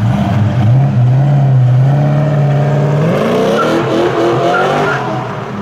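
Muscle car V8 engine running at a low, steady note, then revving up hard from about three seconds in as the car accelerates, its pitch climbing quickly before it fades near the end.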